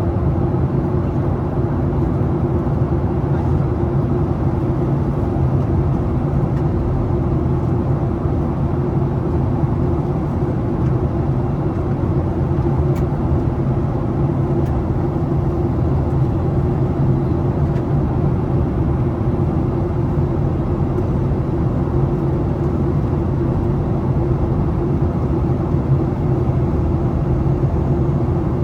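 Steady drone of jet engines and rushing air inside the passenger cabin of a Boeing 737 on its approach to land, with a low hum running through it.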